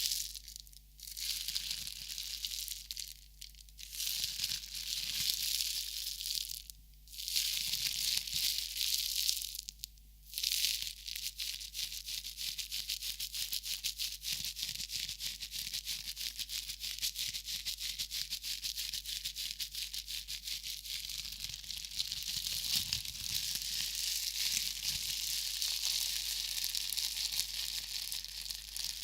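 Close-miked crinkling and rustling of crinkly wrapping being handled. It comes in bursts with short pauses over the first ten seconds or so, then settles into a steady fine crackle.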